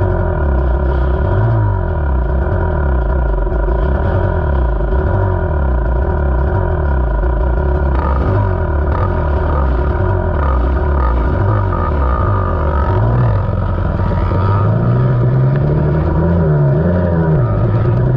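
Two-stroke enduro dirt bike engine, a KTM 300, being ridden. The revs rise and fall again and again as the throttle is worked, then climb steadily over the last few seconds.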